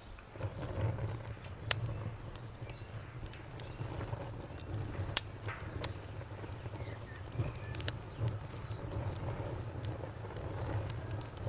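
Campfire crackling with several sharp pops, over crickets chirping steadily in a fast, even rhythm and frogs croaking low.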